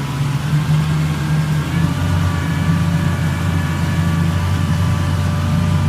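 Engine running steadily at a constant speed, a loud low drone with a faint higher whine above it; it cuts in suddenly at the start.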